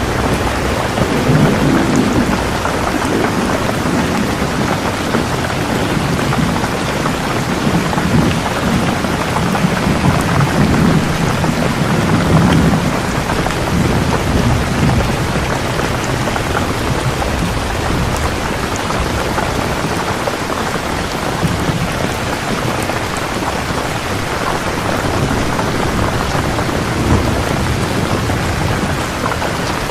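Steady heavy rainfall, with low rolling rumbles of thunder swelling and fading, strongest through the first half.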